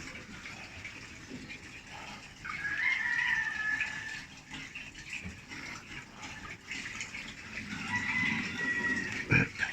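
LG top-load washing machine draining water from its tub, a steady water rush. A rooster crows twice over it, about two and a half seconds in and again near the end.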